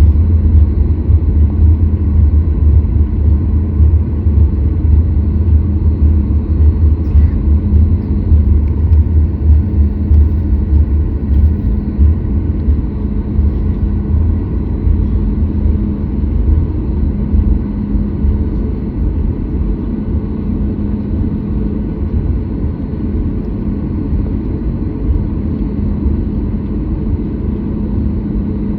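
Steady low rumble inside the cabin of a Boeing 737 MAX 8: the CFM LEAP-1B engines and airflow, with a faint steady hum above the rumble, gradually getting a little quieter.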